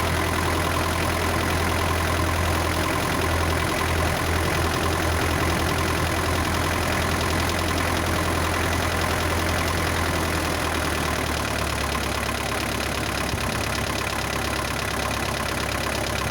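Isuzu NPR truck's diesel engine idling steadily at a raised idle, soon after a cold start following 11 years of sitting, with a slight change in its note about ten seconds in. It has a light valve rattle or tap, which the owner likens to valves needing adjustment and says goes away once the engine warms up.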